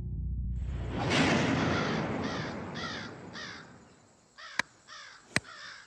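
A bird calling in a quick run of short, harsh, repeated calls, about three a second, over outdoor ambience. Two sharp clicks follow near the end.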